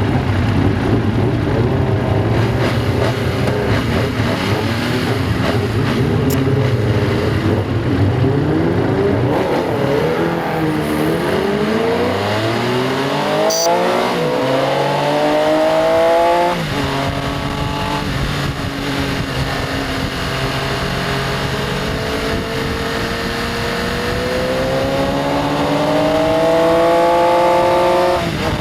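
Benelli Tornado Tre 900's three-cylinder engine pulling hard, its pitch climbing in two long rises, each cut by a sudden drop at an upshift: one about sixteen seconds in and one at the very end.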